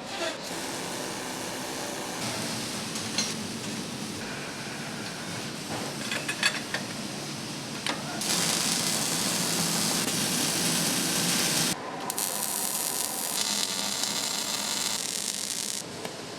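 Factory assembly-line noise: a steady hiss with scattered clicks and knocks. A louder hiss comes in about eight seconds in and cuts off sharply about four seconds later, followed by another hiss that stops near the end.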